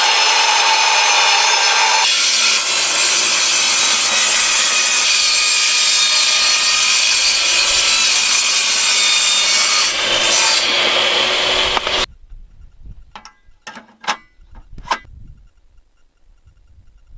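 Table saw running and cutting a board, a loud steady noise that changes as the blade works through the wood, then stops abruptly about twelve seconds in. A few light knocks of the wood being handled follow.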